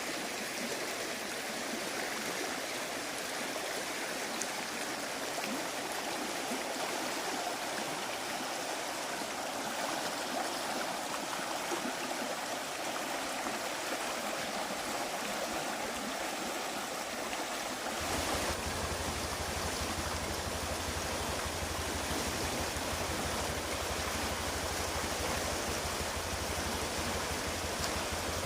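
River water rushing in a steady wash, a river running high after heavy rain. About two-thirds of the way through, a deep low rumble suddenly joins it and stays.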